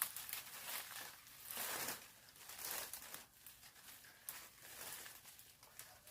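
Rustling and crackling of leaves and twigs in irregular bursts, the loudest about two seconds in, with a few small snaps.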